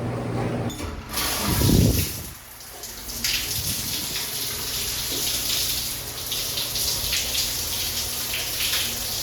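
A shower turned on about a second in. After a brief low rumble, the water sprays and splashes steadily from the showerhead.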